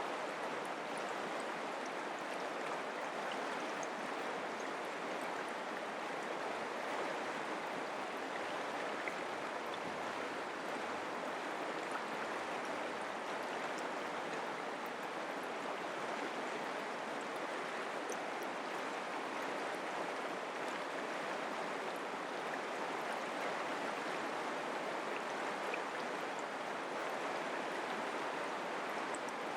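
Mountain creek flowing, a steady even rush of water.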